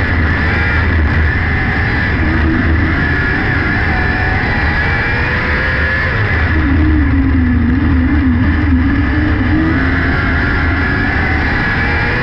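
600cc micro sprint car engine running hard at racing speed, its pitch rising and falling as the throttle comes on and off through the turns.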